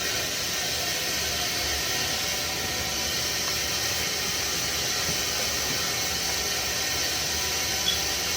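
Steady, loud hiss of steam and water rushing out of a steam boiler's sight-glass drain valve as the gauge glass is blown down to flush out rust, with one small click near the end.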